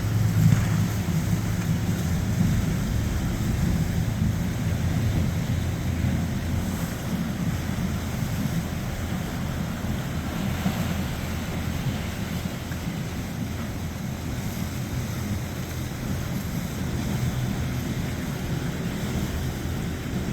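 A motorboat's engine running as it passes through the inlet, its low hum strongest in the first few seconds and fading, under wind noise on the microphone.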